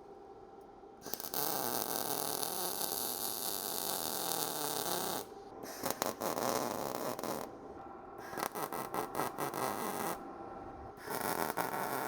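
MIG welder (Arccaptain MIG205MP) arc crackling and sizzling in four short bursts with pauses between. These are stitch welds laid a little at a time on thin-gauge sheet steel, which the welder thinks is probably being welded a little hot.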